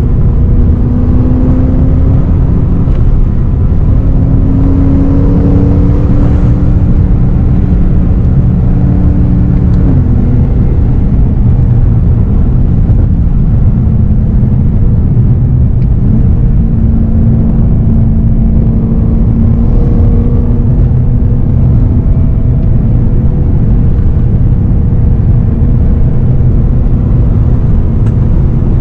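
BMW E92 M3's 4.0-litre V8, fitted with an Akrapovič exhaust and an Eventuri plenum intake, pulling under way as heard inside the cabin. The engine note climbs slowly, drops about ten seconds in, then climbs again, over steady low road rumble.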